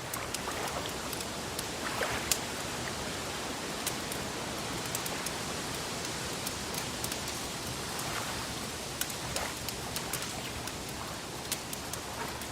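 Wood fire crackling: many scattered sharp pops and snaps over a steady hiss, with a couple of soft swells, one about two seconds in and another past eight seconds.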